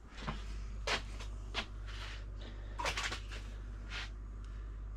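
Light clicks and knocks of 3D-printed plastic parts being handled and set down, five or six in all, over a steady low hum.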